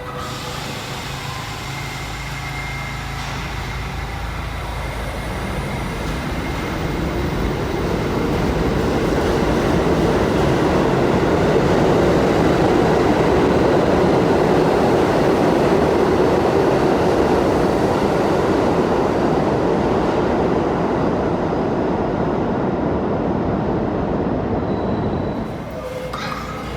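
New York City subway train running through the station, wheels rumbling on the rails. The noise builds over several seconds, is loudest in the middle, eases off, then drops away abruptly near the end.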